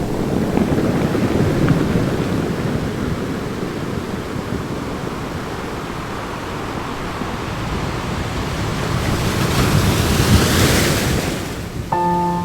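Ocean surf: a steady rush of waves, with one wave building and washing in loudly about nine to eleven seconds in before falling away.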